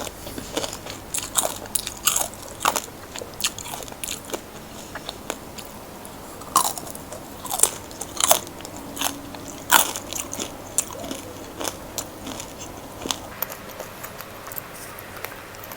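Close-up biting and chewing of crispy fried chicken: irregular sharp crunches of the fried crust, several a second at times, with softer chewing between them.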